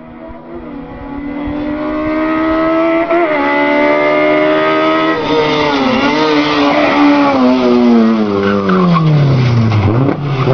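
Autobianchi A112 Abarth's four-cylinder engine under hard throttle, its pitch climbing for about five seconds with a brief hitch about three seconds in, then falling steadily as the revs come down.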